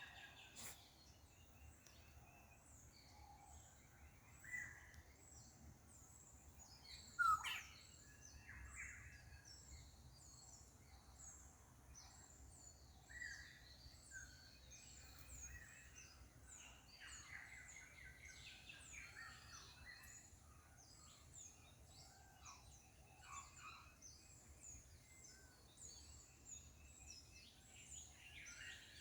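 Birds calling faintly: many short, high chirps repeating alongside scattered lower calls, with one brief louder sound about seven seconds in.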